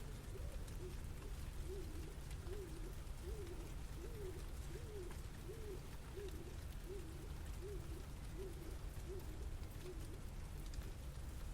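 A bird cooing: a run of about a dozen short, evenly spaced notes, each rising and falling in pitch. They sit over a steady low rumble of city background noise.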